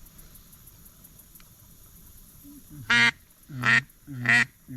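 Loud quacks from a hunter's duck call: three short, evenly pitched quacks under a second apart, starting about three seconds in, with a fourth beginning at the very end.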